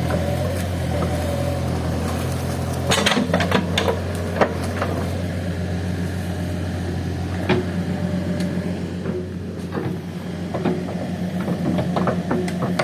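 Diesel engine of a Case heavy machine running steadily under work, with scattered knocks and clatters a few seconds in and again later.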